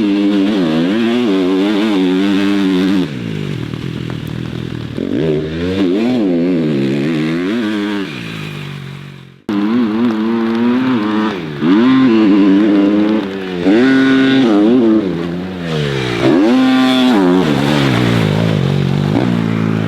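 Dirt bike engine being ridden hard, its pitch rising and falling again and again as the throttle is opened and closed through gears and corners. It cuts off abruptly about halfway through, then picks up again.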